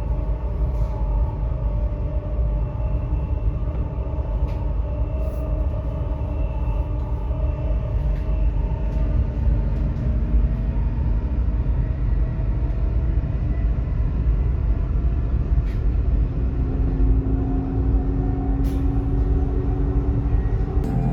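Whoosh high-speed electric train running: a steady low rumble with faint humming tones above it.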